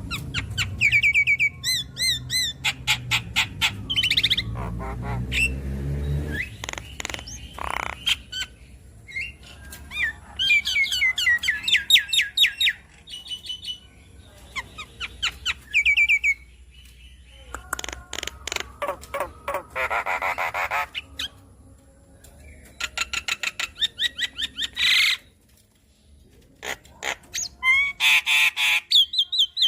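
Javan myna (jalak kebo) singing in bursts of rapid repeated chirps, whistles and harsh squawky notes, with short pauses between phrases. A low hum runs under the first few seconds.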